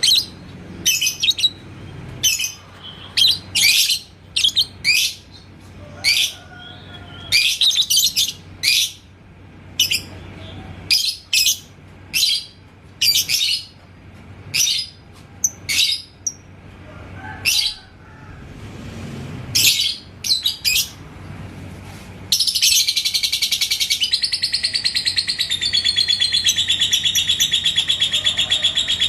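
Lovebird giving sharp, short high chirps at irregular intervals. About 22 seconds in it breaks into a continuous, rapid, rattling chatter that runs on unbroken: the long 'ngekek' song prized in Indonesian lovebird keeping.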